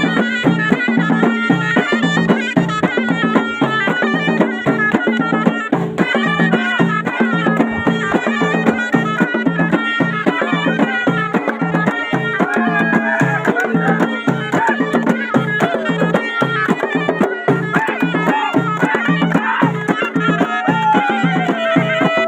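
Moroccan ghaita (folk shawm) playing an ornamented, winding melody over a held low note, with a steady drum beat.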